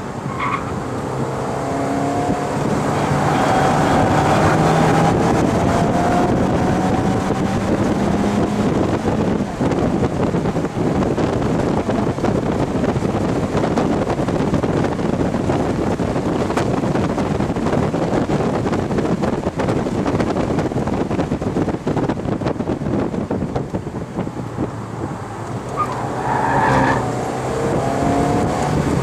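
Mazda MX-5 NA engine heard from inside the open cockpit while lapping a track, with wind and road noise throughout. The engine pitch climbs as it accelerates a few seconds in and again near the end.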